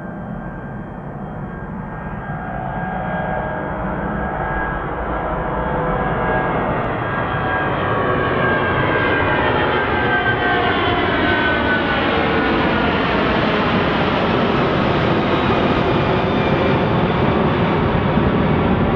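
Jet engines of an Airbus A330-300 airliner, its twin Rolls-Royce Trent 700s, running and growing steadily louder over the first half, with whining tones that slide in pitch as the aircraft passes.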